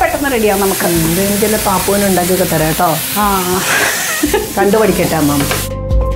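Chopped onion, carrot, garlic, mushroom and paneer sizzling as they fry in ghee in a nonstick pan, with a voice over it. Near the end the sizzle cuts off and music with a steady beat takes over.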